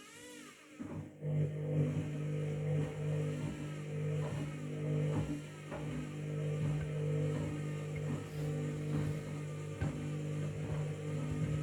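Washing machine drum motor starting about a second in and running with a steady hum that pulses gently as the drum turns, with short knocks from the wet bath mat tumbling inside.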